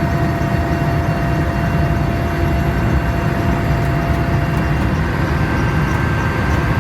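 Helicopter heard from on board: a steady, loud drone of engine and rotor noise with a faint steady whine on top.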